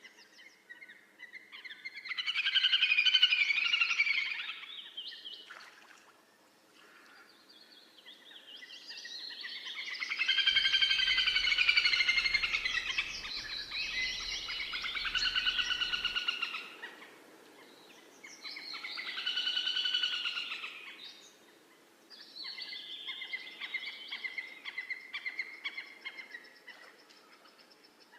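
Songbirds singing in several bouts of rapidly repeated notes, with short quieter gaps between bouts.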